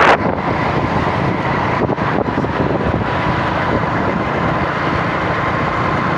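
A vehicle on the move: steady road and engine noise with wind buffeting the microphone, and a faint constant whine.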